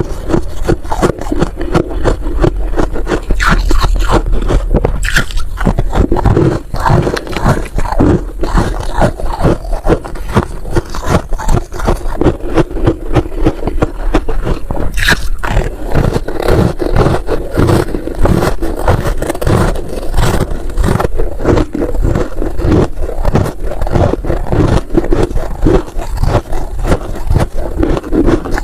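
Freezer frost being scraped and crunched up close, a dense run of gritty, irregular crackles and scrapes.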